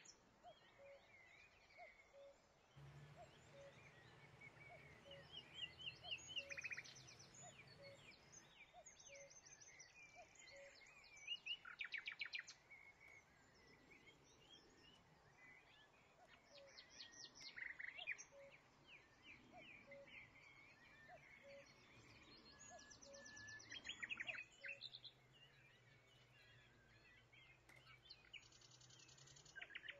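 Faint birdsong: several birds chirping, with short rapid trills every few seconds.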